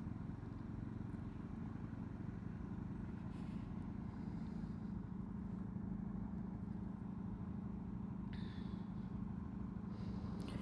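Honda CB125R's single-cylinder 125 cc engine running steadily under way, heard from the rider's seat. Its note gets stronger about halfway through.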